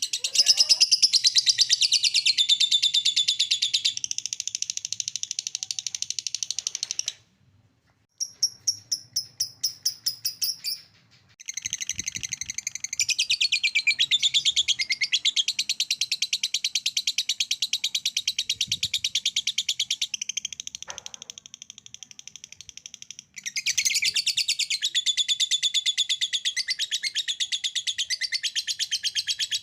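Lovebirds 'ngekek'-ing: long runs of fast, high-pitched rattling chatter. The chatter breaks off briefly twice, about seven and eleven seconds in, with a string of evenly spaced, higher chirps between the breaks.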